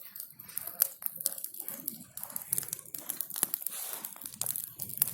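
Bonfire of burning branches crackling, with irregular sharp snaps and pops.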